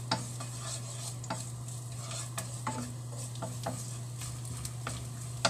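Chopped garlic and onion sizzling in hot oil in a frying pan, with a wooden spatula stirring them and knocking against the pan now and then. A steady low hum runs underneath.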